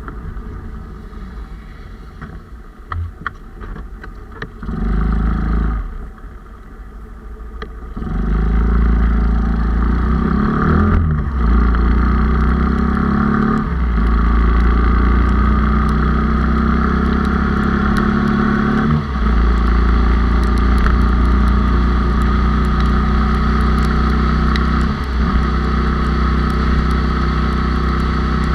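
Honda Cub motorcycle's 97cc four-speed single-cylinder engine running on the road, heard from an onboard microphone. It is quieter for the first several seconds, then louder and steady from about eight seconds in. The engine note briefly dips four times.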